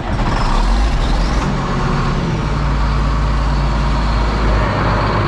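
John Deere 4555 tractor's six-cylinder turbo diesel engine starting up and settling into a steady idle.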